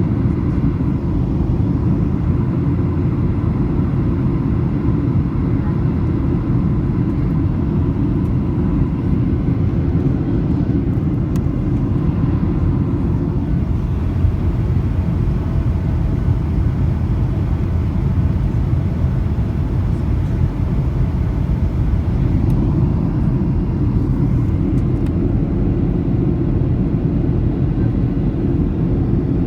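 Steady cabin noise inside a Boeing 737-800 on approach: the low rumble of its CFM56 engines and airflow past the fuselage, with a faint steady whine.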